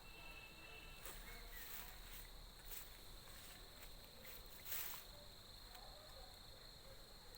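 Faint, steady high-pitched drone of insects, with a few short clicks, the loudest a little under five seconds in.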